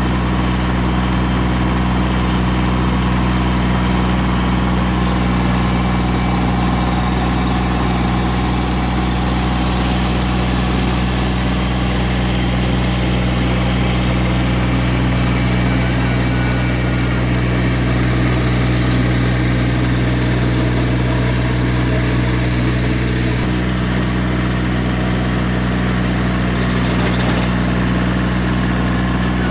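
Massey Ferguson GC1710 sub-compact tractor's diesel engine running steadily under load while it drives a Woods RTR 48.30 reverse rotary tiller through the soil.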